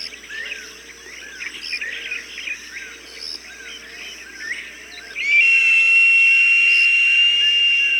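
Small birds chirping in a steady run of short repeated notes. About five seconds in, a long, steady, high whistled call begins and holds for several seconds, the hawk call of a bird-scaring recording.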